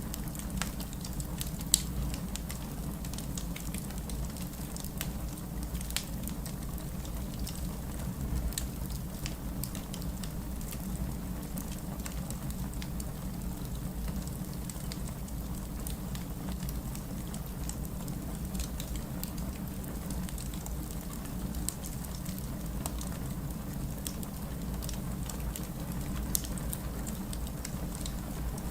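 Steady rain mixed with the crackle of a wood fire: a constant hiss and low rumble, with scattered sharp pops and clicks, two of them louder, one about two seconds in and one near the end.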